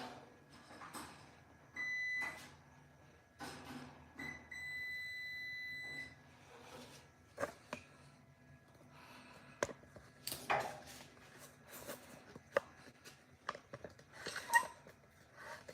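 Multimeter continuity beeper sounding twice: a short beep about two seconds in and a longer steady beep of about a second and a half near the middle, signalling a closed circuit. Scattered clicks and knocks of the test probes and handling run around the beeps.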